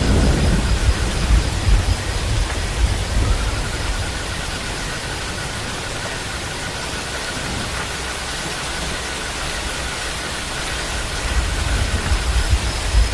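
Steady rain hissing. Low rumbling comes in the first couple of seconds and again near the end.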